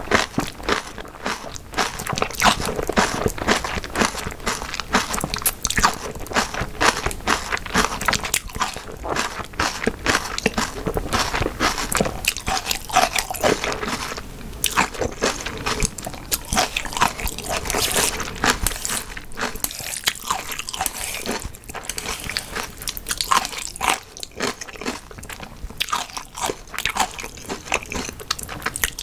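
A person chewing food close to the microphone: continuous crunching bites and chewing.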